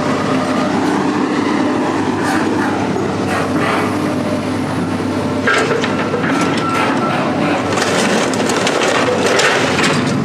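A heavy machine's engine running steadily while scrap metal is worked, with scraping, creaking and clanking over it. The clanking and grinding grows busier about halfway through, with a brief squeal of metal on metal.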